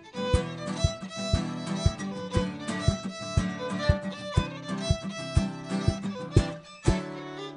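Instrumental break in a folk hymn: a fiddle plays the melody over guitar strummed on a steady beat about twice a second.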